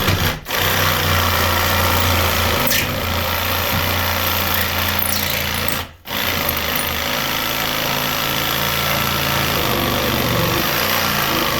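Power tool cutting through a 3/4-inch plaster ceiling along a marked line, running steadily with a low hum. It stops briefly near the start and again about six seconds in.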